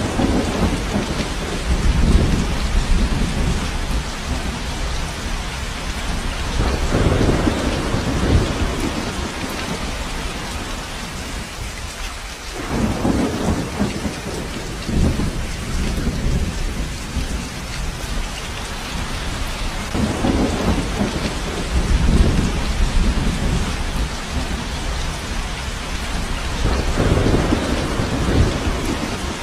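Steady heavy rain falling, with low rolls of thunder swelling and fading every few seconds, the strongest at about 2, 7, 13, 22 and 27 seconds in.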